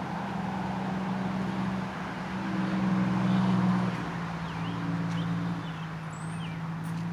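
Motor traffic passing on a highway: a steady low hum of engines and tyres that swells about three to four seconds in, then eases.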